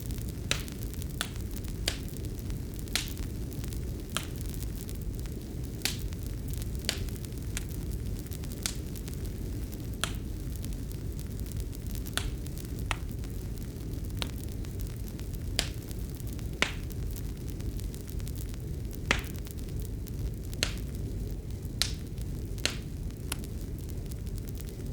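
Fireplace fire crackling: irregular sharp pops and snaps, one or two a second, over a steady low rumble of burning.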